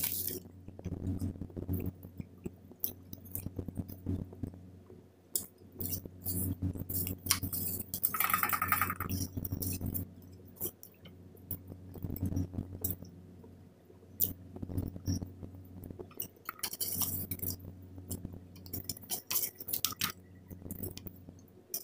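Close-up chewing of Indomie pancit canton instant fried noodles, with many small wet mouth clicks and a louder stretch of mouth noise about eight seconds in.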